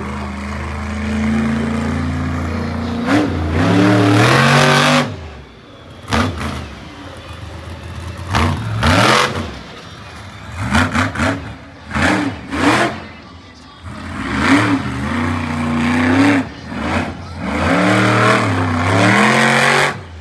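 Monster truck engine revving hard in repeated bursts, with sharp throttle blips and drops. There are two long full-throttle stretches, one at the start and one near the end, and short stabs of throttle between them.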